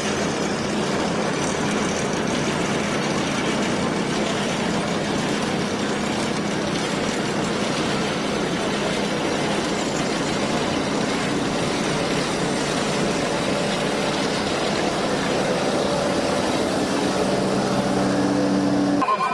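Motor vehicle engine running steadily under a continuous, even noise, with a low hum that grows a little stronger near the end.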